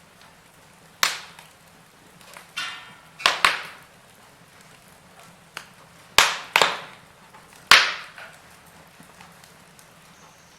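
Wood fire in a fireplace crackling: a handful of sharp, loud pops spread irregularly through, with fainter ticks and a low hiss between them.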